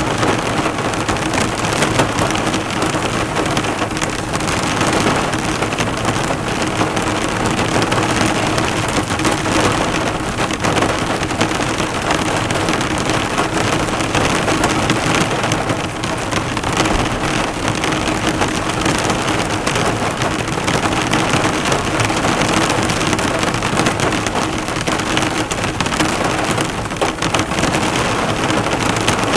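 Heavy rain drumming steadily on a car, drops spattering and bouncing off the hood in a dense, even patter.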